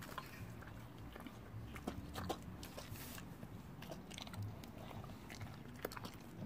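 A dog eating from a plate: quick, irregular chewing and biting clicks.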